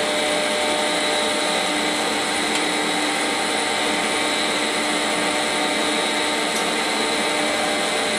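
Quantel Paintbox computer system running after power-up: a steady, even whir of cooling fans and drive with several constant hum tones.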